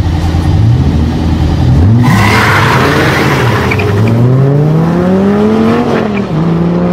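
Sin R1's V8 engine revving at the start, then launching hard with a rush of tyre noise about two seconds in and accelerating away, its pitch climbing steadily. About six seconds in the pitch drops briefly for an upshift, then climbs again.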